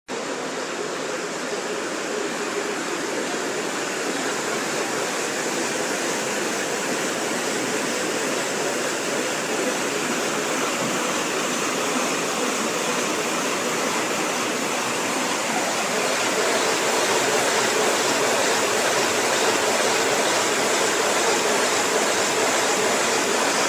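Water rushing steadily through a water mill, an even roar that grows a little louder about two-thirds of the way in.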